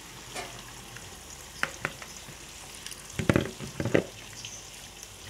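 Taro leaf stems sizzling in a hot wok as coconut milk is poured in and stirred: a steady frying hiss with a few sharp clicks, then a louder burst of clattering about three to four seconds in.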